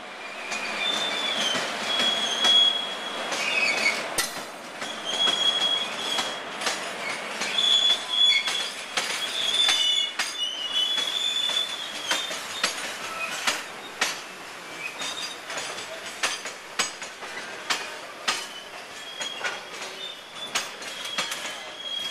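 Freight train of covered wagons passing as it takes the points onto a loop line: the steel wheels squeal on the rails in high, drawn-out tones that come and go. Wheels click irregularly over rail joints and switches under a steady rolling rumble.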